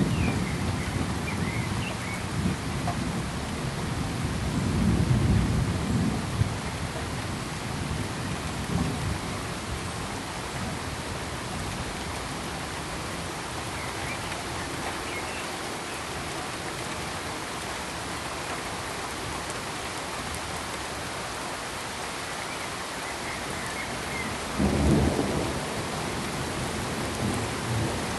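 Steady hiss of rain with low rumbles of thunder swelling at the start, around five seconds in, and loudest about twenty-five seconds in.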